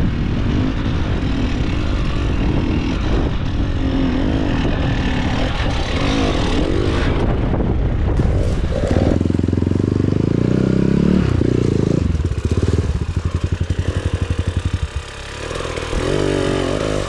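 KTM 300 two-stroke enduro motorcycle's single-cylinder engine running under throttle, revving up and down. Around the middle it climbs in pitch, then drops to slow, even popping at low revs, with a short rev near the end.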